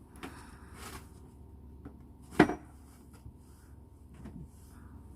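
A single sharp knock about two and a half seconds in, with fainter handling clatter and small clicks around it.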